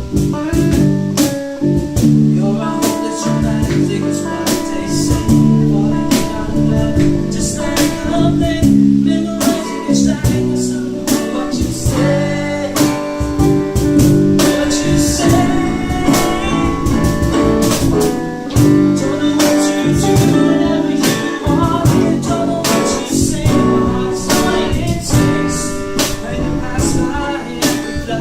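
A band playing a song at rehearsal: guitar over a steady beat of percussive hits, with a voice singing.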